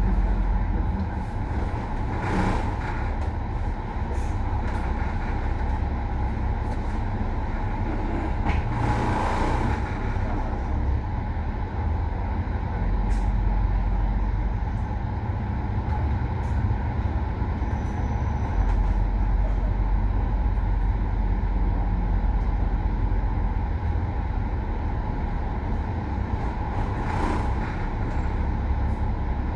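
A bus running, heard from inside: a steady engine and road drone, with three short hisses of air about two, nine and twenty-seven seconds in.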